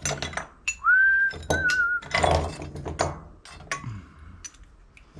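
A short whistle about a second in, rising, then held and wavering briefly, amid clinks and rattles of scrap brass and copper pieces being picked through.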